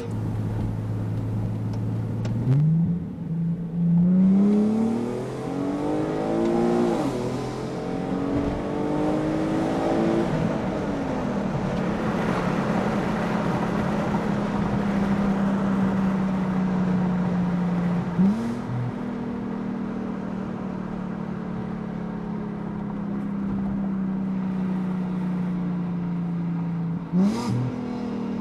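Infiniti G-series sedan's V6 through a custom exhaust, accelerating with its note climbing repeatedly through the gears, then cruising at steady revs with two brief rises later on.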